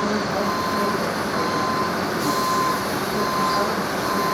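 Vehicle reversing alarm beeping about once a second, a single steady tone, over a continuous background rumble and hiss.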